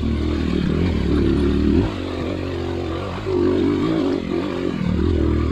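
Dirt bike engine running on a trail, its revs rising and falling, easing off about two seconds in and picking up again just over a second later.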